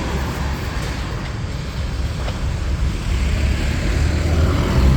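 Street traffic: a steady low rumble of passing vehicles, with an engine note coming in near the end.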